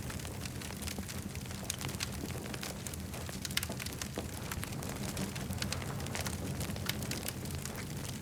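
Campfire burning with a steady low rumble, wood crackling and popping in many quick irregular snaps.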